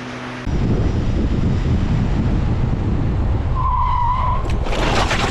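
Motorcycle running at speed, with heavy wind rumble on the microphone. About four seconds in comes a short tyre squeal, then near the end a loud, harsh skid as the rider brakes hard, going too fast for a junction just around a curve.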